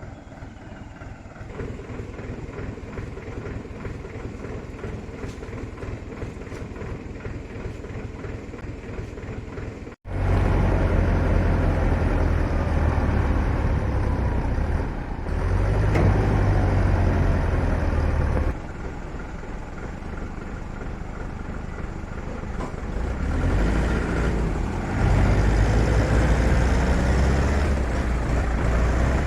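Heavy vehicle engines, a tractor and a tipper truck, labouring to drag the truck free of mud. For about ten seconds an engine runs steadily and fairly quietly. Then, after an abrupt break, much louder engine revving rises and falls in pitch in repeated hard pulls.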